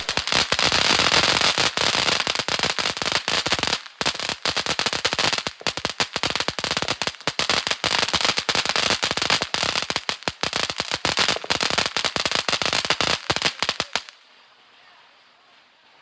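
Ground firework fountain in a crackling stage: a loud, dense rattle of rapid small pops that starts suddenly, dips briefly about four seconds in, and cuts off abruptly about fourteen seconds in.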